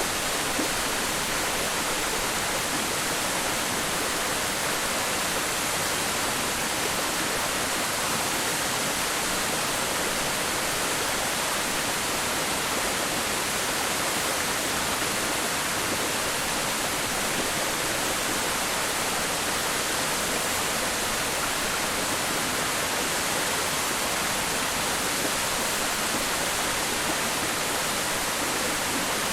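Waterfall crashing into its pool: a steady, unbroken rush of falling water, strongest in the upper-middle range, with no changes.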